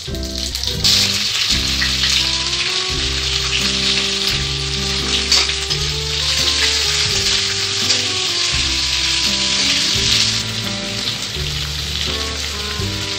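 Cumin seeds and sliced onions sizzling in hot oil in a kadai, stirred with a metal spatula. The sizzle swells about a second in and eases a little near the end, with background music of held notes underneath.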